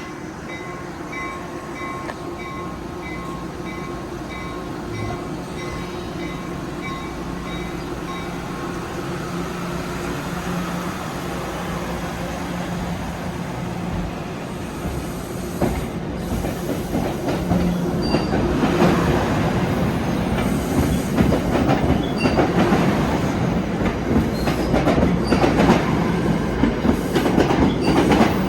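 NJ Transit commuter train of Comet V coaches pulling out and passing, with a steady low hum that grows louder. From about two-thirds of the way in, the wheels clack over rail joints as the cars roll by faster.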